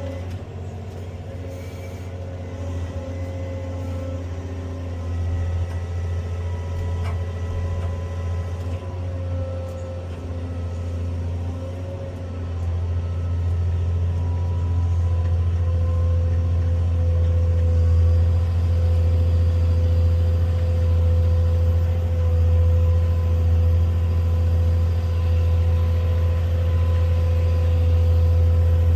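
Diesel engine and hydraulics of a Cat 385C large excavator heard from inside its cab: a steady low drone with a fainter whine above it. It grows louder from about halfway through as the machine works.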